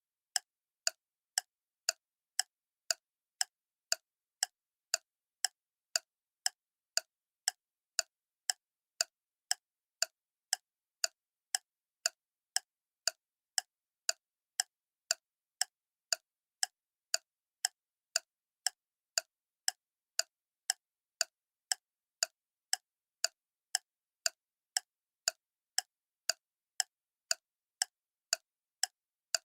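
Clock ticking steadily, about two sharp ticks a second, evenly spaced with complete silence between them.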